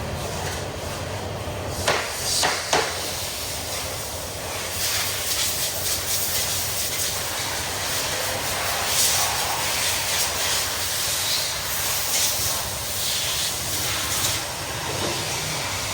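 Repair-shop work on a scooter's wheel: two sharp knocks about two seconds in, then a steady hiss over a low machine hum.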